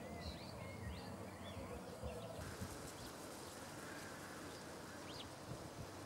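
Faint short bird chirps over steady outdoor background noise for the first two seconds or so. A little over two seconds in, the sound cuts abruptly to a different, even hiss.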